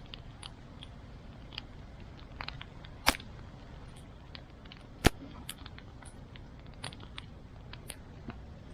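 Wood fire crackling, with scattered small snaps and two louder pops about three and five seconds in.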